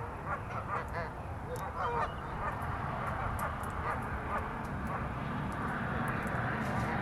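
Waterfowl calling: a flurry of short calls in the first couple of seconds, thinning out to scattered calls after that.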